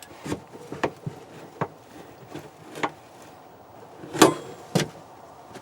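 A string of separate clicks and knocks from a brake pedal and an add-on parking-brake latch on a Polaris RZR 800, worked by foot, with the latch hard to engage. The two loudest knocks come about four seconds in, half a second apart.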